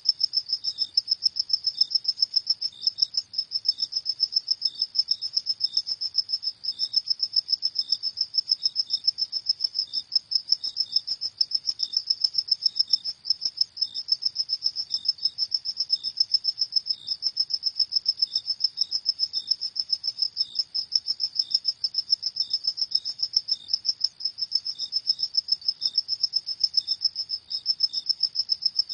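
Crickets chirping in a fast, even, high-pitched pulsing trill with short breaks every few seconds, and a fainter, sparser chirping a little lower in pitch alongside it.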